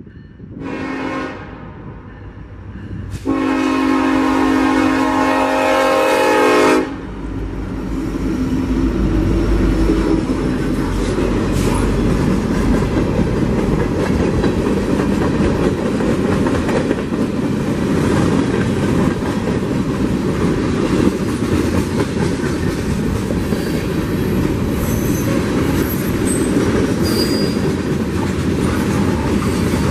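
Air horn of two Union Pacific SD70ACE diesel locomotives leading a freight train: a short blast about a second in, then a long blast of about three and a half seconds. The locomotives then rumble past, followed by freight cars rolling by with steady wheel clatter and a few faint high wheel squeals near the end.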